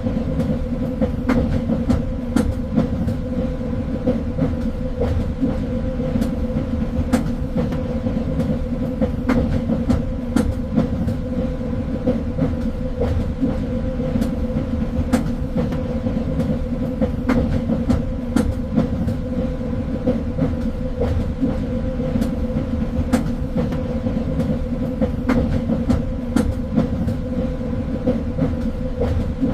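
A train running along the track: a steady low rumble with a constant hum, and irregular sharp clicks and knocks from the wheels over the rails.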